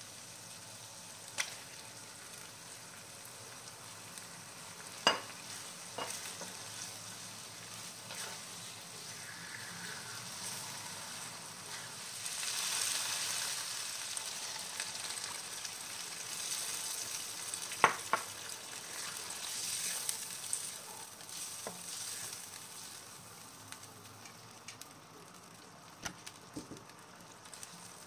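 Curry paste sizzling in a wok as it is stir-fried with a wooden spatula, with a few sharp knocks against the pan. The sizzle grows louder about twelve seconds in as the chicken pieces are fried in the paste, then dies down near the end once water goes in for the braise.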